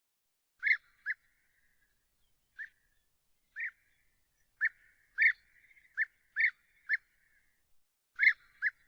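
A bird giving short call notes, about a dozen at uneven intervals, each a single brief note, some close together in pairs, loudest around the middle and near the end.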